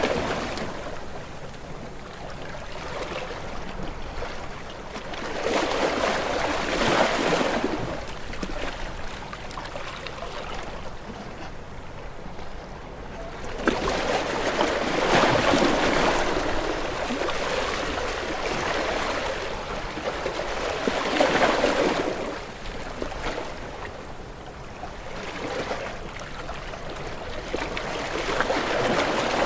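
Ocean waves washing in, a rushing surge of surf that swells and fades about every seven seconds.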